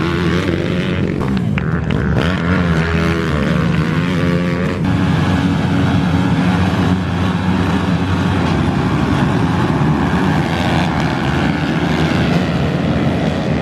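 Small-capacity pit bike engines racing, their pitch rising and falling as the riders work the throttle for the first few seconds, then a denser, steadier engine noise as more bikes run together.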